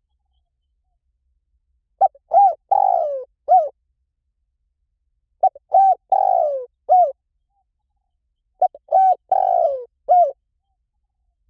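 Spotted dove calling: three phrases of coos, about three seconds apart, each a few short coo notes around one longer coo that falls in pitch.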